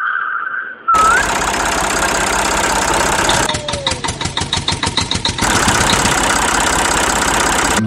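An engine-like running noise, loud and steady, with a fast, even chugging in its middle stretch. It is typical of the tractor engine sound these model-tractor videos carry. A short whistle tone comes just before it.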